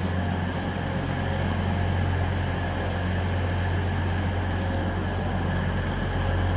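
Diesel multiple units idling at the platform: a steady low engine hum with a broad rumble over it, unchanging throughout.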